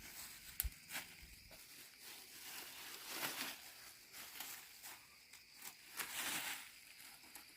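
Faint rustling and scuffing with a few light clicks, swelling briefly twice.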